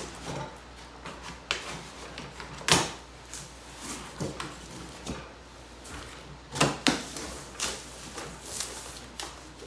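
A cardboard shipping box being opened and rummaged through: scraping and rustling of cardboard and packing, with several sharp knocks, the loudest a little under 3 seconds in and again near 7 seconds.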